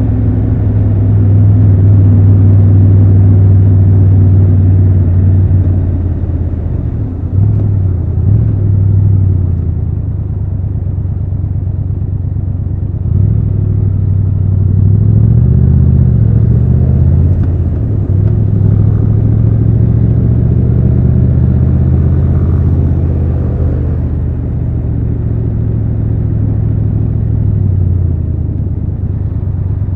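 Triumph Tiger 1200 Rally Pro's three-cylinder engine running under way, mostly holding a steady low note, with the pitch wavering and shifting several times in the middle as the throttle is opened and closed.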